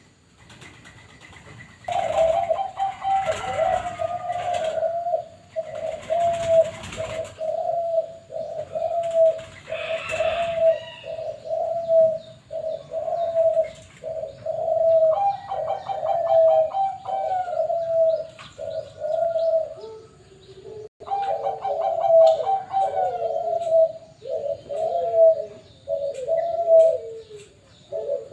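Bangkok-type zebra dove (perkutut) cooing in long repeated phrases that start about two seconds in. A lower-pitched cooing joins from about twenty seconds in, with faint chirps of small birds between the coos.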